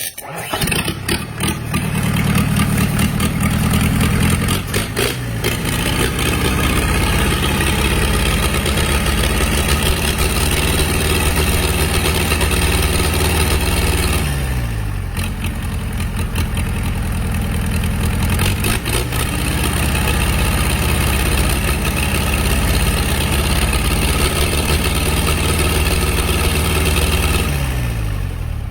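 A very old, long-abandoned diesel engine being cranked and firing up, then running steadily. Its note falls twice, about halfway through and again near the end.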